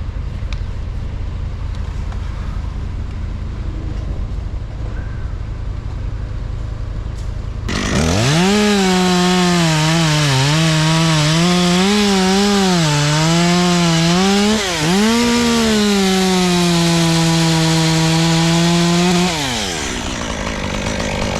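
A low steady rumble, then a chainsaw revs up about a third of the way in and cuts, its pitch dipping and rising under load. It then runs steady for a few seconds and winds down to a stop near the end.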